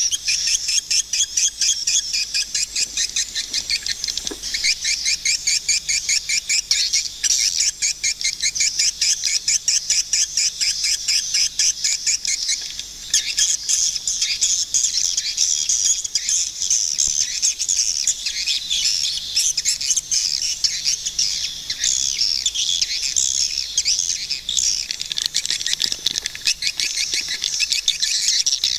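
Swiftlets calling: a continuous, dense twittering of fast, high chirps repeated many times a second, with a short dip about twelve seconds in.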